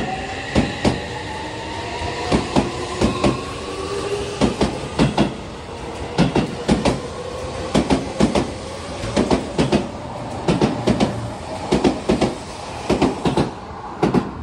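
Seibu 6000-series electric train pulling away, its traction motors whining in several tones that rise in pitch as it accelerates. Paired clacks of the wheels over rail joints come closer and closer together as it gathers speed.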